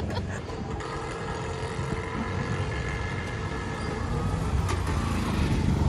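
Street traffic: a motor vehicle's engine running with a steady low rumble, getting slightly louder toward the end.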